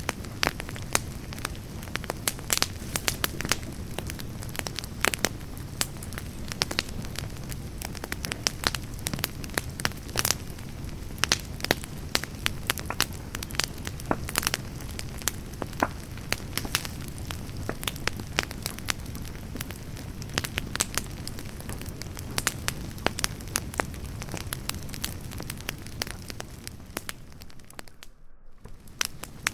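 Firewood campfire burning: many sharp, irregular pops and crackles over the steady low rumble of the flames. The sound briefly drops out near the end.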